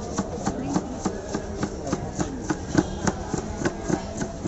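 A jhal muri vendor's utensils striking in quick, fairly regular strokes, about three to four a second, as he prepares the puffed-rice mix, over low street chatter.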